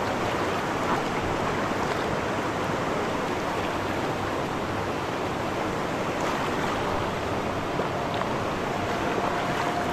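Rushing river water, a steady churning wash with a few faint ticks of splashing.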